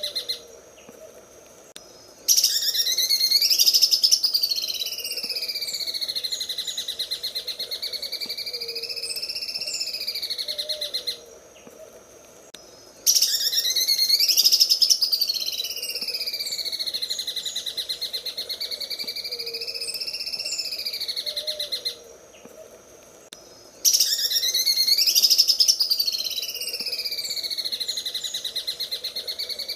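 Greater green leafbird (cucak ijo) singing its 'sewing machine' (mesin jahit) song: a fast, machine-like rattling trill whose pitch swoops down and back up. It comes as three long phrases, each broken off by a pause of about two seconds.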